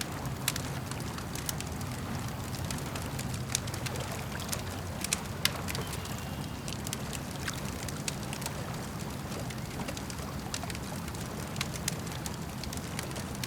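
Campfire crackling and popping in irregular sharp snaps, over a steady low wash of lake water lapping at the shore.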